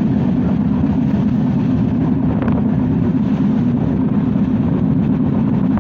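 Bonolota Express passenger train running, a loud steady rumble of the moving train with one brief knock about two and a half seconds in.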